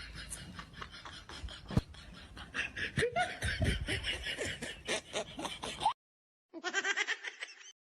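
A person snickering and laughing in quick rapid pulses, cut off suddenly about six seconds in, then a short second laugh near the end.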